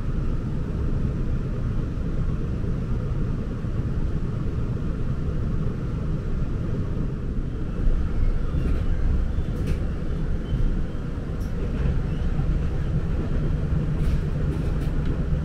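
Passenger train running at speed, heard from inside the passenger car: a steady low rumble of wheels on rails, with a few faint clicks in the second half.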